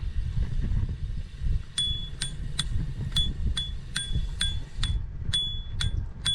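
Wind and road rumble on the microphone of a camera riding on a moving bicycle. From about two seconds in comes a run of sharp, ringing metallic ticks, two or three a second and unevenly spaced.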